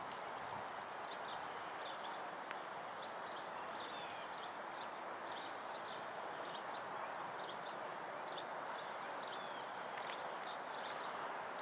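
Small birds chirping in many short, quick high notes over a steady background hum.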